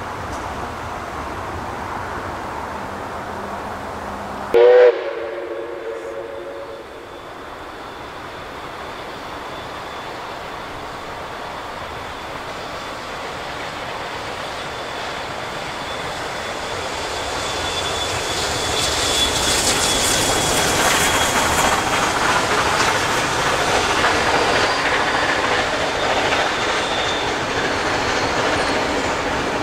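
A train horn gives one short blast about five seconds in, the loudest sound heard. Then a train runs around the curve, its wheels rumbling and clattering on the rails, growing louder in the second half, with a thin steady high whine over it.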